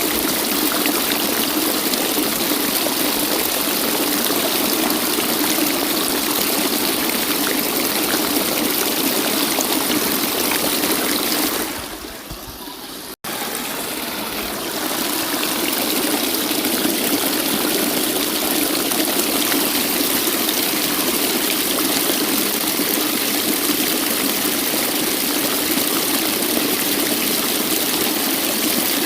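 Waterfall's steady rush of falling water. Near the middle it dips in level, cuts out for an instant, then resumes and builds back to full.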